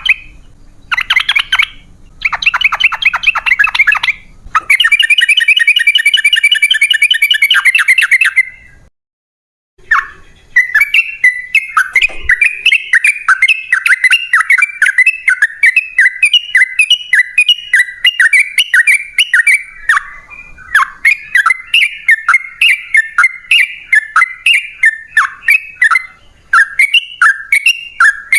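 Yellow-vented bulbul singing: fast chattering phrases for the first several seconds, a brief pause, then a long unbroken run of quick repeated bubbly notes, several a second.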